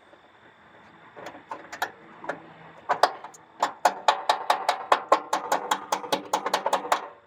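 A stuck metal socket being tapped again and again to knock it off a bolt: a few scattered taps, then a quick, even run of sharp metallic taps, about five a second, each ringing briefly, which stops suddenly near the end.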